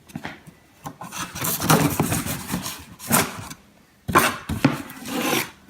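A knife sawing and scraping through box packaging in rough, uneven strokes, pausing briefly about three and a half seconds in.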